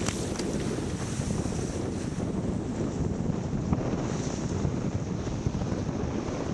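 Steady wind buffeting the microphone aboard a racing sailboat, over the rush of water and waves, with a couple of faint ticks.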